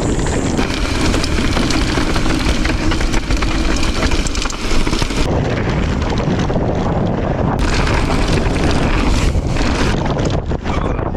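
Wind buffeting a GoPro's built-in microphone while riding a bicycle: a loud, dense rumble of wind noise. The hiss in the upper range cuts out a little past the midpoint and comes back a couple of seconds later, as clips with and without the furry windscreen alternate.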